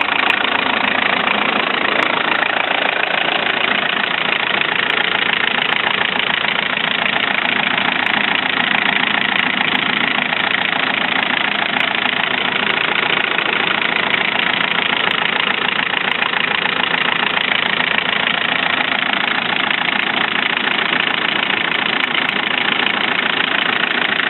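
Range Rover Classic's VM 2.4 four-cylinder turbodiesel idling steadily, warming up after a cold start.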